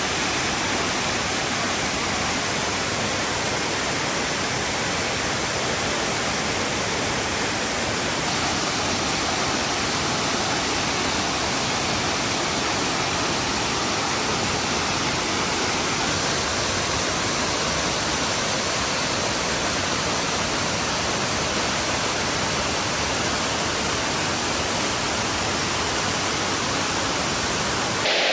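Waterfall: water falling and rushing in a loud, steady, unbroken wash.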